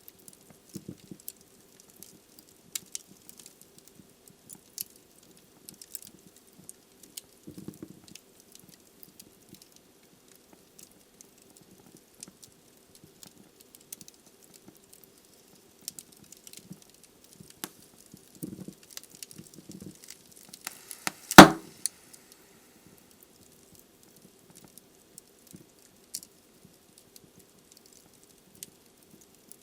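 Wood fire crackling in a fireplace: sparse small ticks and snaps from the burning logs, with one loud sharp pop about two-thirds of the way through.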